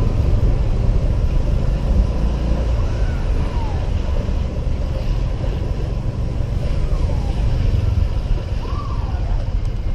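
Wind buffeting a helmet-mounted camera's microphone over the steady low drone of a Honda PCX 125 scooter and traffic while riding. A few faint falling tones sound in the background.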